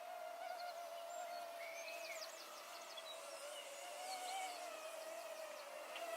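Parrot Mambo mini quadcopter's propellers whining in flight: one steady buzzing tone that wavers slightly in pitch.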